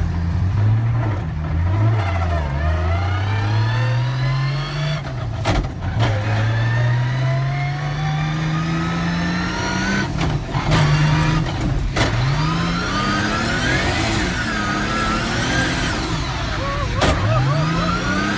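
Isuzu D-Max drift car's 1000-plus-horsepower engine revving hard, its pitch climbing slowly through long pulls, then dropping and climbing again, with a few abrupt breaks in the sound.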